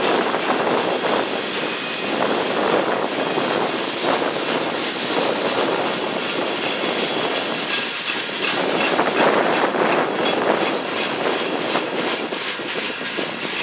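Freight cars of a passing train rolling by: a steady rumble of steel wheels on rail with clattering, swelling and easing every couple of seconds as the cars pass.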